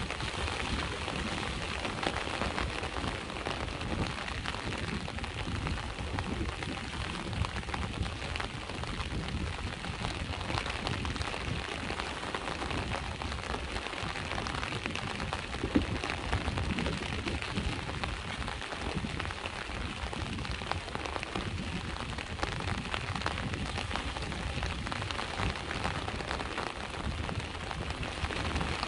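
Steady rain pattering in many fine drops, over a low rumble. One sharper drop or tick stands out about halfway through.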